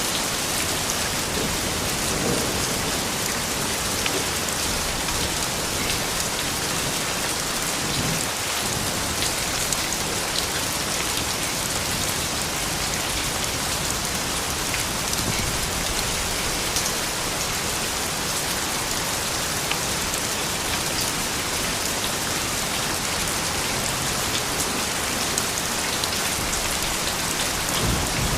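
Steady rain falling, with many small drops ticking on surfaces and an even hiss that holds at one level throughout.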